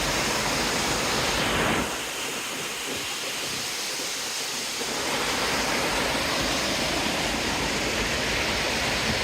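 Cascading waterfall rushing as a steady roar of water noise; it drops a little about two seconds in and swells back up around five seconds.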